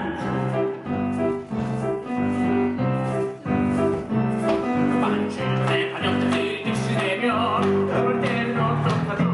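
Live musical-theatre band music: keyboard or piano chords changing in a steady rhythm.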